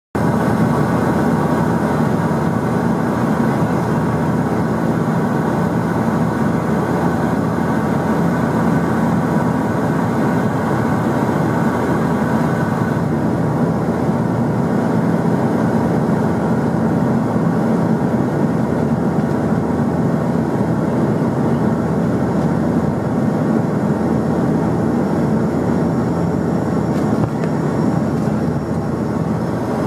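Airliner cabin noise on the landing approach: the steady roar of the engines and rushing air, with a few steady engine tones. The upper hiss eases a little about thirteen seconds in.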